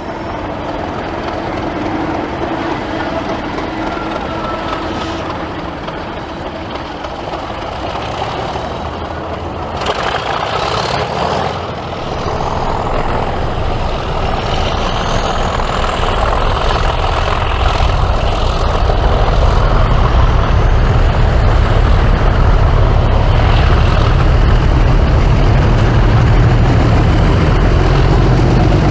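Diesel locomotive engine running, with a brief hiss about ten seconds in. A high whine then rises and holds while the engine's deep throb builds and grows louder through the second half.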